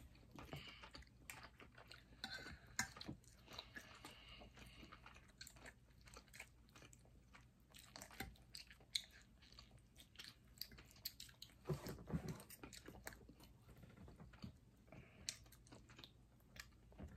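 Faint, close-miked chewing and biting of lobster and salmon, with many small sharp clicks of a fork against a plate.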